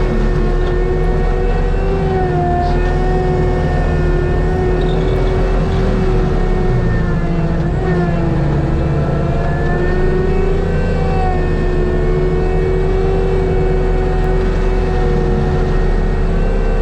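ASV RT-120F track loader's diesel engine and Fecon Bullhog forestry mulcher head running hard while grinding brush. The engine note sags slightly about halfway through and recovers: the head is taking load without stalling.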